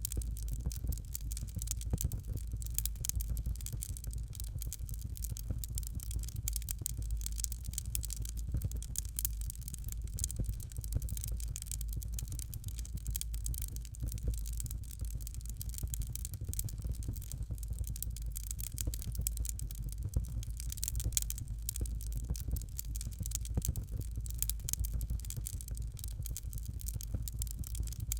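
Fireplace fire crackling: a dense, irregular stream of small pops and snaps over a steady low rumble.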